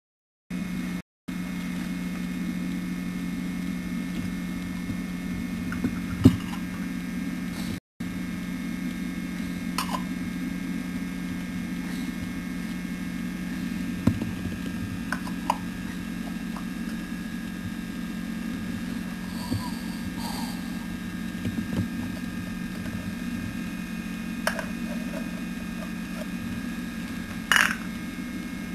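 Steady low hum with occasional faint clicks and knocks.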